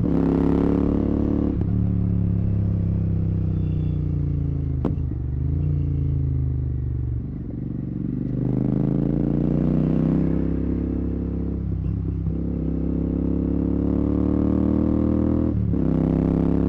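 Royal Enfield Continental GT 650's 648 cc parallel-twin engine running through a Red Rooster exhaust with no dB killer, pulling through the gears. The note climbs in pitch and drops sharply at each shift, about five times, with a short easing off the throttle just before the middle.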